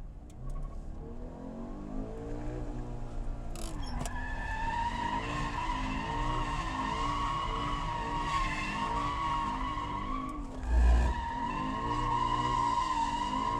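Stock Toyota GT86's flat-four engine revving up and down as the car drifts, with the tyres squealing in a long steady note from about four seconds in. A short low thump near the end briefly breaks the squeal, which then resumes.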